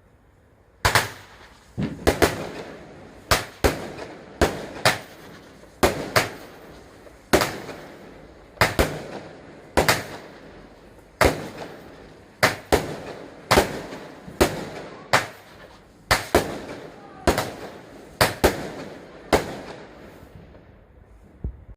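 Fireworks going off: a long run of sharp bangs, often in quick pairs, at about one to two a second. Each bang has a ringing tail. The bangs start about a second in and stop shortly before the end.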